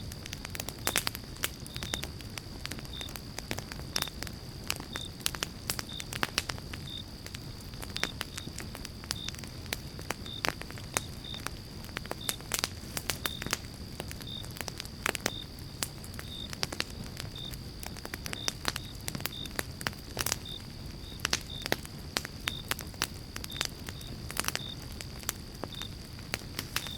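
Campfire of pine logs burning, with constant crackling and frequent sharp pops over a low steady rumble of the flames.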